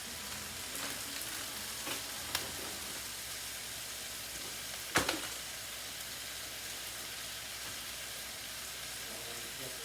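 Steady frying sizzle from a pan of potatoes, mushrooms and onions, with a few light clicks early on and one sharp knock about five seconds in.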